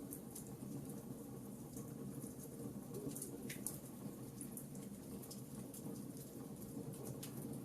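Wood fire crackling in a fireplace: small irregular pops and snaps over a steady low rumble of the flames.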